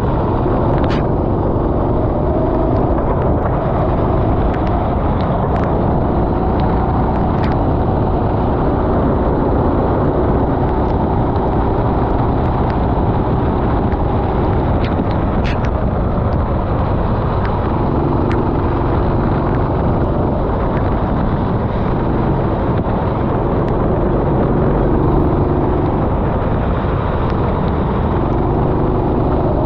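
Racing kart engine running hard, its pitch rising and falling as it accelerates and slows through the corners, under a heavy rush of wind and wet-track noise.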